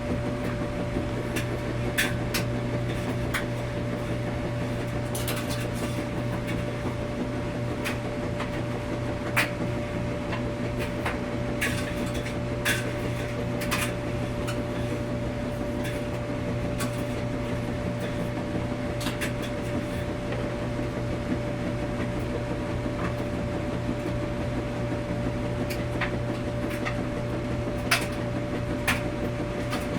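Washing machine running: a steady mechanical hum with a held mid tone. Sharp clicks and knocks sound at irregular intervals, a dozen or so.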